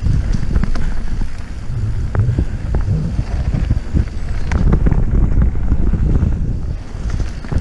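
Wind buffeting the microphone during a fast mountain-bike descent, a dense low rumble with irregular sharp knocks and rattles of the bike over rough trail.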